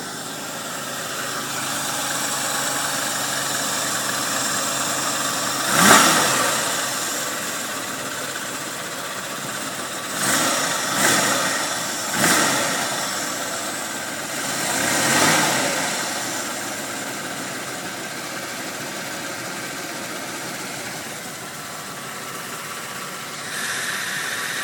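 1981 Buick Electra 225's 4.1-litre carbureted V6 running at idle while the idle is being set lower, with five brief rises in engine speed, one about six seconds in and four between about ten and sixteen seconds.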